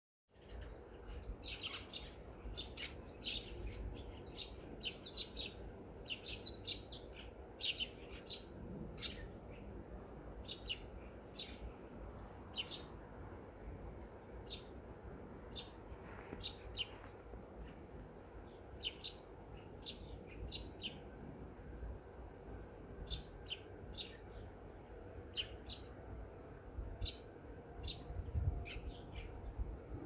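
Small birds chirping: short, high calls come quickly one after another in the first several seconds, then more scattered, over a faint steady low outdoor rumble.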